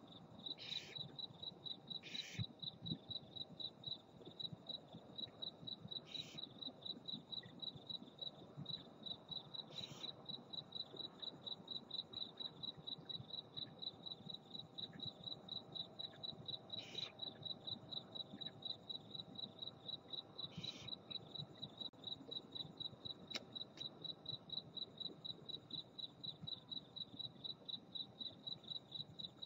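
A cricket chirping steadily, evenly spaced chirps at one high pitch, with a few short hisses scattered through it.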